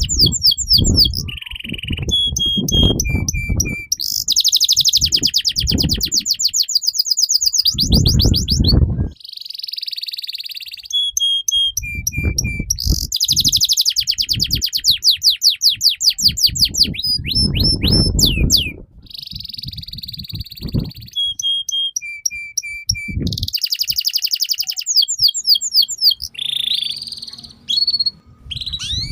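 Domestic canary singing a long, continuous song of fast trills, rolls and repeated sharp high notes, phrase after phrase with only brief pauses, with a low rumble beneath the loudest phrases.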